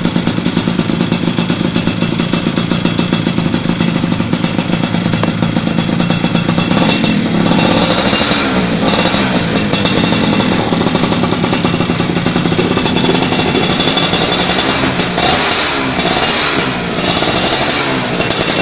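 Yamaha F1ZR's single-cylinder two-stroke engine running loud through a racing exhaust, with a fast, rattly pulse and a hissy top end, briefly easing off and picking up again a few times.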